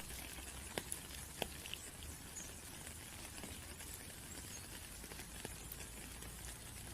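Steady rain falling, an even hiss of drops with a few sharper single drips standing out in the first two seconds.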